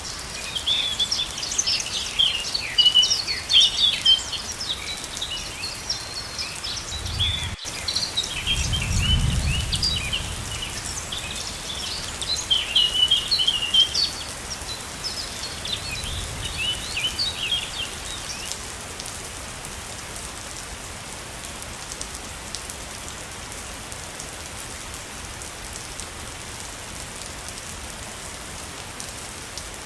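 A waterfall's steady rushing water, with songbirds chirping busily over it until about eighteen seconds in, when the birds fall silent. Low rumbles come in briefly about seven to ten seconds in and again near sixteen seconds.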